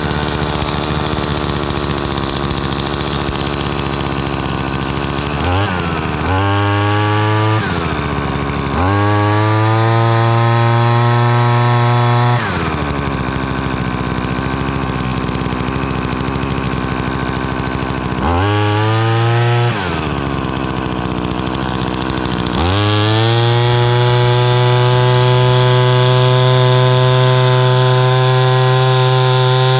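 Mitsubishi T140 two-stroke strimmer engine, just cold-started and running with the choke off, idling and revved up four times: each time the pitch rises sharply, holds high, then falls back to idle, and the last rev holds to the end.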